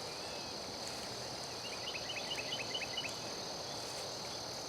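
Steady, high-pitched insect chorus, with a bird giving a quick run of about ten short, downward-sliding chirps around the middle.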